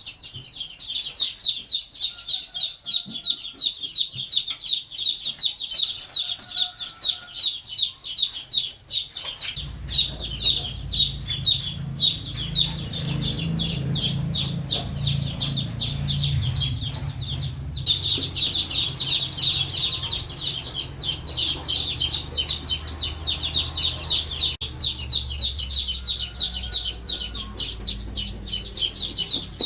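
Outdoor animal sounds: a dense, fast-pulsing high chirring runs throughout, with a few short calls now and then. A low rumble comes in about ten seconds in and stays.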